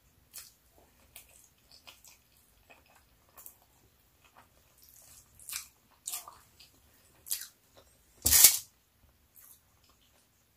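Close-miked eating sounds: chewing, lip smacks and finger-picking at pork adobo and rice. About eight seconds in there is one much louder noisy sound lasting about half a second.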